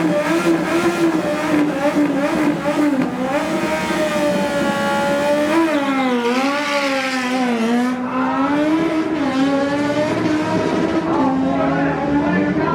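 Engine of an under-900 cc drag-racing motorcycle held at high revs, its pitch wavering up and down, dipping and recovering about midway, then holding steadier near the end.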